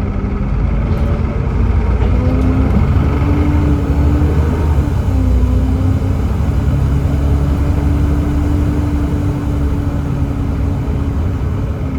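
Volvo B7TL bus's Volvo D7C 7.3-litre six-cylinder diesel pulling under load. Its note rises, drops at an upshift of the ZF Ecomat six-speed automatic gearbox about four and a half seconds in, then climbs again and holds steady.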